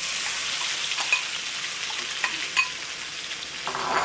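Crushed chili paste frying in hot oil in a wok, a steady loud sizzle, with a few sharp clicks of a utensil against the pan.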